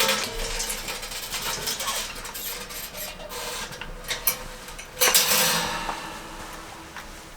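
Clattering and knocking of camp gear, with a sharp loud knock about five seconds in, after which the sound fades away.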